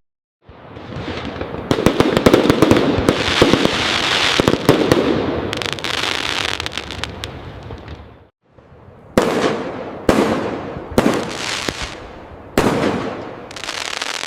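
Fireworks going off: a dense stretch of rapid crackling and popping that fades out over the first half, then after a brief pause about five separate sharp bangs, each trailing off.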